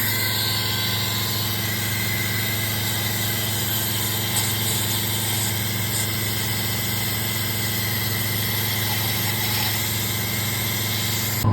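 Suction vacuum motor running steadily, a low hum with a higher whine, set up to suck spilled fuel and oil out of the empty diesel injector bores.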